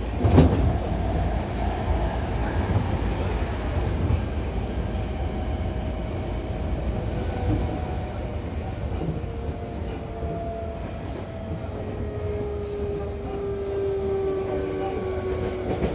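Hankyu commuter train heard from inside the car by the doors: steady rumble of wheels running on the rails, with one loud clunk about half a second in. In the second half, several falling tones rise out of the rumble as the train brakes and slows for a station.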